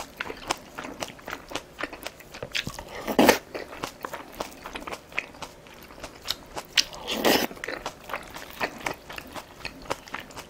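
A person chewing green onion kimchi and dumpling, with a steady run of small crunches and wet mouth clicks. Two louder, longer sounds come about three and seven seconds in.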